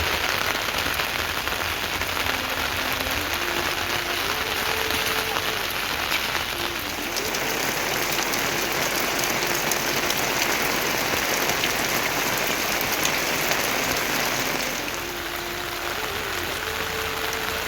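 Heavy rain falling steadily: a dense hiss of drops striking surfaces. Underneath runs a faint line of long held notes that step up and down in pitch.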